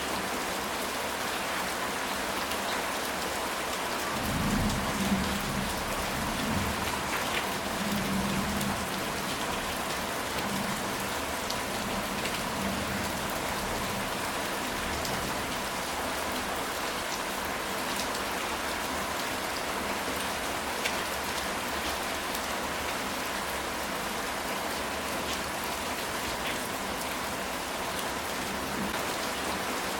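Steady rain falling on a ceramic tile roof, with a low rumble of thunder about four to nine seconds in.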